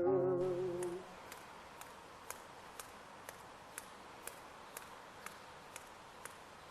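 A man's held sung note with vibrato fades out within the first second, then sharp, faint clicks follow at an even pace, about two a second, over a low hiss.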